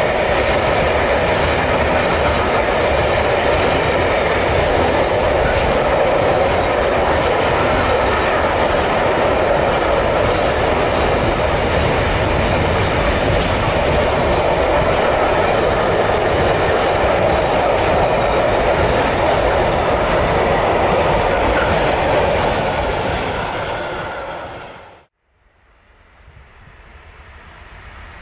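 A train passing close by on the track, a steady loud rumble with wheels clattering over the rails. It fades out abruptly about 25 seconds in, and a quieter rumble then builds toward the end.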